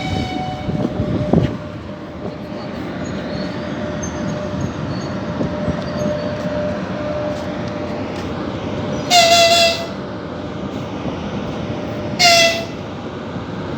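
A train moving off with a steady rumble and a faint steady whine, and a knock about a second in. It gives two short horn blasts, the first about half a second long, the second shorter, a few seconds apart.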